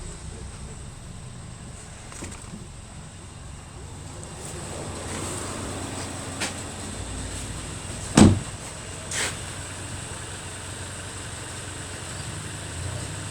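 Volkswagen Golf engine running steadily at idle, with one sharp loud knock about eight seconds in and two fainter knocks around it.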